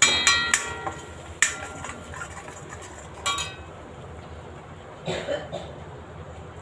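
A metal spoon knocking against steel cookware: several sharp clinks, each ringing briefly, in the first few seconds, then a softer clatter about five seconds in. This fits the ground masala paste being tapped off the spoon into the pan.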